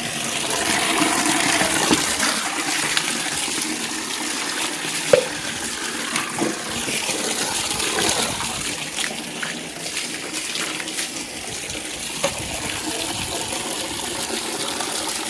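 Water running and splashing over a motorcycle as it is washed: a steady hiss with a few light knocks.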